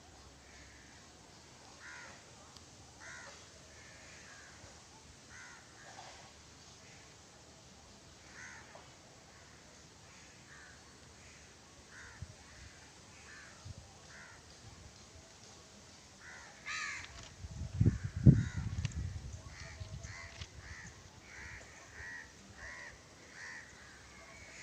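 Crows cawing over and over, short harsh calls about every second. About two-thirds of the way through comes a loud low rumble lasting a couple of seconds, with a cluster of louder calls just before it.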